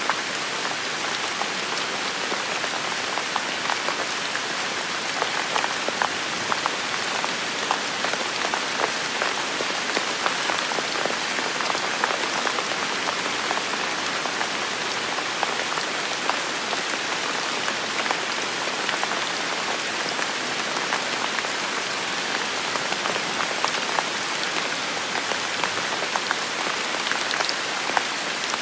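Heavy rain falling steadily, with many close drops pattering in a continuous hiss.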